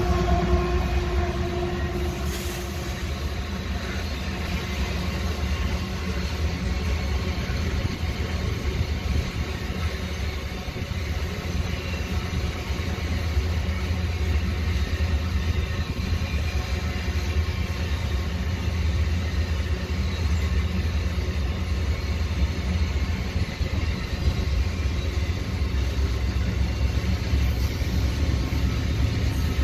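A long freight train of steel gondola ore wagons rolling past at close range: a steady, continuous noise of wheels running on the rails, heaviest in the low range. A few held tones fade out in the first two seconds.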